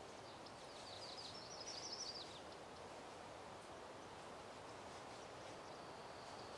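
A small bird sings a quick run of high chirping notes that climbs in pitch and stops about two seconds in, over a faint steady outdoor hiss. A faint, thin, high note is held near the end.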